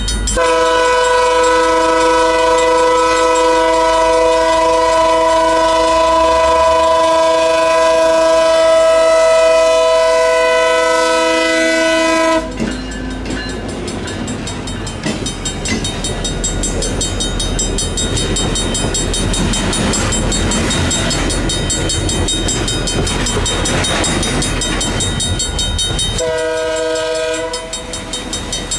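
A train horn blows one long chord of several notes held for about twelve seconds. Then the train rolls past with a steady rumble of wheels on rail. The horn sounds once more, briefly, near the end.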